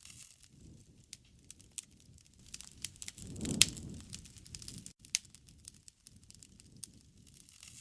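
Wood bonfire crackling, with scattered sharp pops over the low rush of the flames. About halfway through, the fire flares louder and gives one strong pop.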